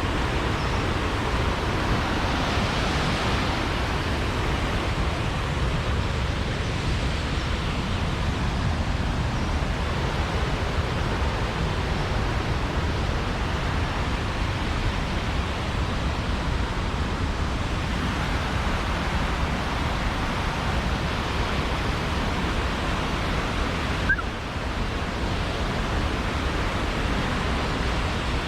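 Steady rushing roar of Silvertip Falls' water, with one brief click near the end.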